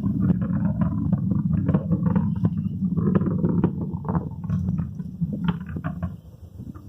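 Falcon 9 first stage's nine Merlin engines heard from afar during ascent: a deep, steady rumble shot through with crackling, fading near the end.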